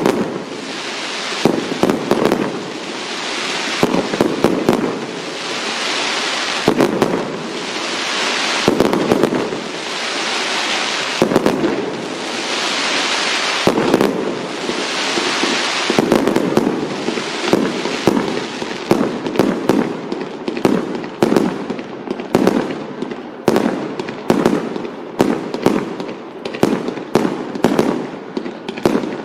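Fireworks going off: sharp bangs mixed with crackling bursts that each last a second or two. From about halfway through, the bangs come faster, often several a second.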